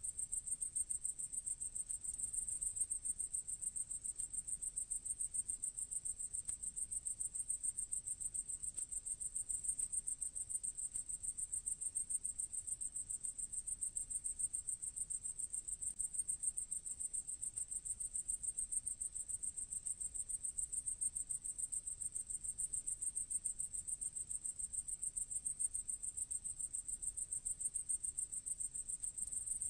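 A grasshopper-type singing insect stridulating: one continuous high-pitched song made of rapid, even pulses, with no pause.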